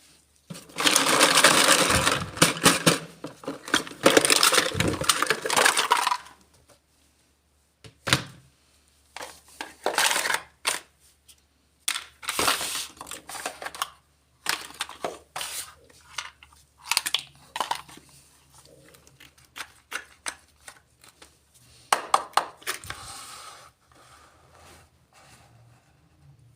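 Miniature plastic toy pieces being handled: several seconds of continuous rustling near the start, then scattered light plastic clicks and clacks with short pauses between them.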